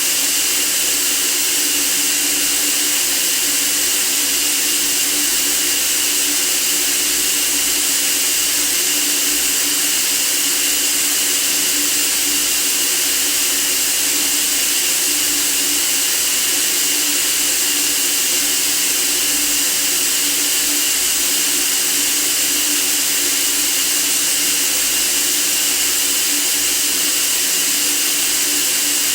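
Steady white noise for sleep: an even, unchanging hiss, strongest in the treble, with a faint low hum underneath.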